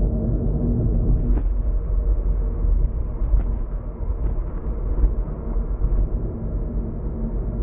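Car driving on a road, heard from inside: a steady low rumble of tyres and engine. A steady hum drops away about a second and a half in and comes back near the end, with a few light knocks along the way.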